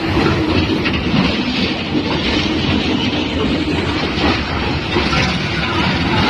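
Train running through a station, a steady loud rumble of wagons with a few wheel clicks over the rails.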